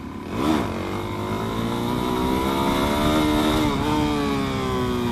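Motorcycle engine under way, its pitch climbing slowly as it accelerates, dipping briefly near the end as it shifts, then falling as it slows, over a steady hiss.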